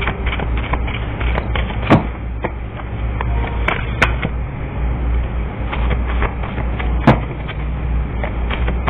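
A steady low rumble with irregular clicks and taps over it; the sharpest taps come about two seconds in and about seven seconds in.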